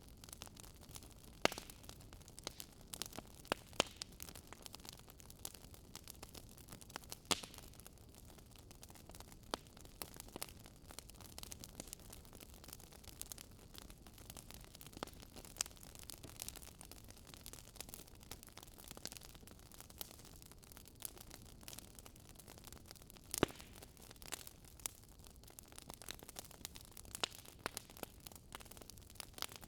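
Wood fire crackling: irregular sharp pops and snaps over a soft, steady hiss, with a few louder cracks scattered through.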